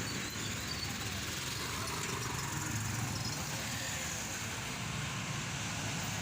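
Steady road and traffic noise of a vehicle driving, with a low engine hum.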